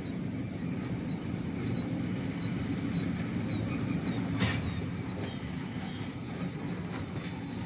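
Steady low rumble of a slow-moving freight train of grain hoppers, with a bird's short, high, falling chirps repeated over it. A single sharp click about four and a half seconds in.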